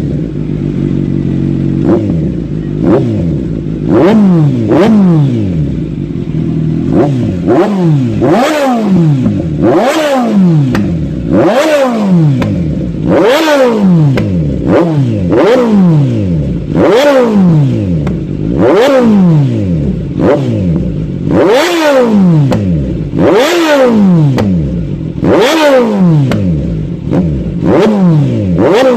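Kawasaki Z900's inline-four engine breathing through a JP Racing aftermarket exhaust, free-revved in a long series of short, sharp throttle blips about one every second or two, each rising quickly and dropping back toward idle.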